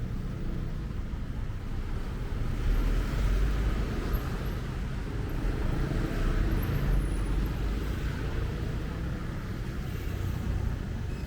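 Street traffic: a steady rumble of passing cars and other road vehicles, swelling twice as vehicles go by, a few seconds in and again past the middle.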